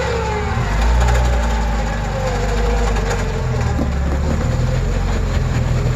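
A 4x4's engine runs under load as it is driven over a rock obstacle with the front locker engaged. The engine swells about half a second in, and a wavering whine rides over it.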